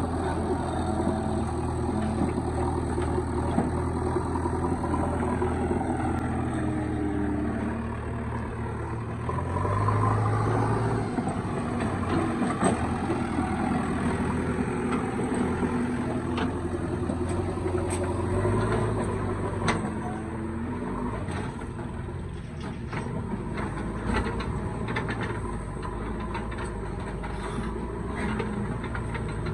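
Diesel engines of a backhoe loader and tractors running, the engine note rising and falling as the machine works under load, with scattered knocks and clunks from the loading work in the second half.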